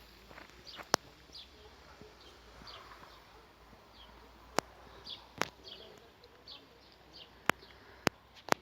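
Small birds chirping: many short, falling chirps repeated through the garden air. About six sharp clicks stand out louder, scattered through.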